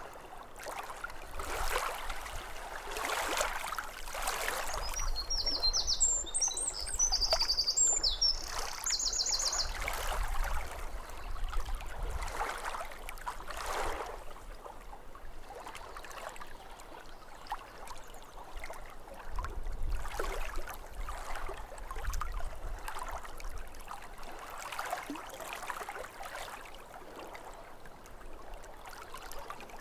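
Small waves lapping at a lakeshore in irregular soft splashes. A bird sings a high, rapid trilling phrase from about five to ten seconds in.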